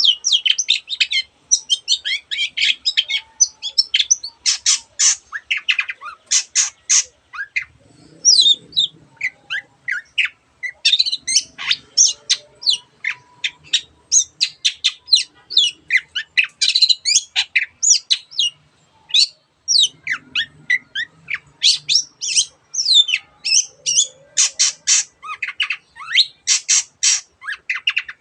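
Long-tailed shrike singing a fast, varied song of short high notes, with brief pauses. Its song weaves in imitations of other birds' calls.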